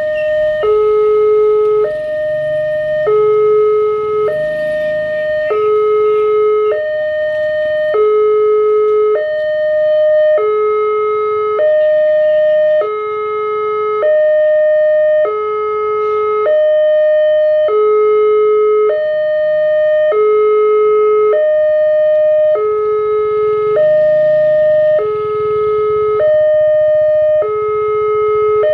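Electronic railway level-crossing alarm sounding its two-tone warning, a lower and a higher tone alternating steadily, each held a little over a second; the uploader takes the alarm for an older-version WANTECH unit fitted to the new KYOSAN x LEN crossing gate.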